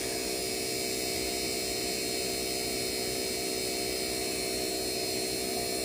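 Hercules cordless vacuum pump running steadily as it pulls a vacuum on a small heat pump's refrigerant lines. It makes an even hum with several steady whining tones.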